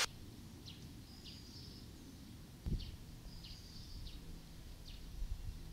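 Faint bird chirps: short high notes, some with a brief held tone, repeating roughly every second, over a low rumble. A single dull thump comes about halfway through.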